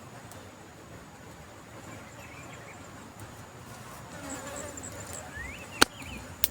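Insects buzzing steadily, with a few short rising chirps. A single sharp crack, the loudest sound, comes near the end, followed by a smaller click.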